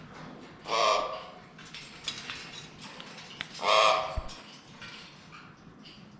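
Parrot squawking loudly twice, each call about half a second long, the first about a second in and the second nearly three seconds later.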